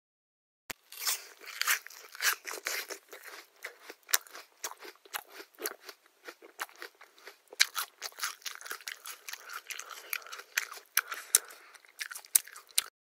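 A person biting into and chewing crunchy food: a sharp bite about a second in, then a dense, irregular run of crisp crunches that stops abruptly near the end.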